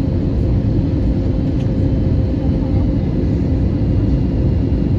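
Airbus A320neo cabin noise at a window seat on approach: a steady low rumble of airflow and engines, with a faint constant hum.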